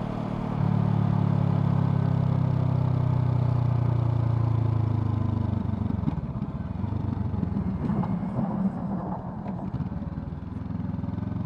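Honda CL500's 471 cc parallel-twin engine running: it gets louder about half a second in and holds a steady note, then drops off about halfway through into an uneven, choppy off-throttle sound, and settles to a steadier, quieter run near the end.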